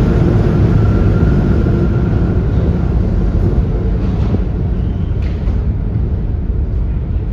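New York City subway train running: a steady low rumble with a faint whine over the first few seconds and a few light clicks midway, slowly fading toward the end.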